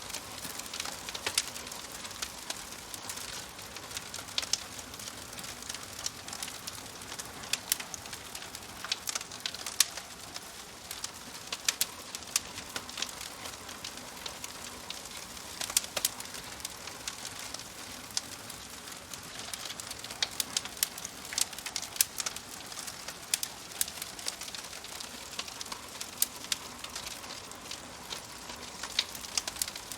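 Wood fire crackling in a fireplace: a steady soft hiss with frequent sharp pops and snaps at irregular intervals.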